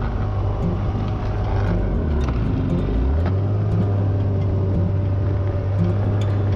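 Vehicle engine running steadily. It drops in pitch about two seconds in and rises back up about a second later as the speed changes.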